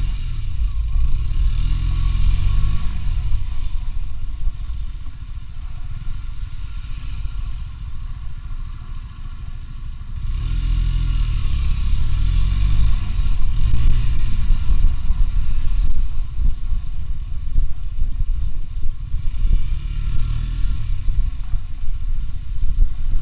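Motorcycle engine running under way over a heavy low rumble, its pitch rising and falling several times as the rider accelerates and shifts: about two seconds in, again around ten to fourteen seconds, and near the end.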